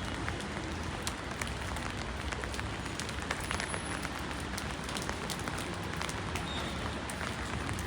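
Steady rain falling on hard surfaces: an even hiss with many sharp, irregular ticks of individual drops striking.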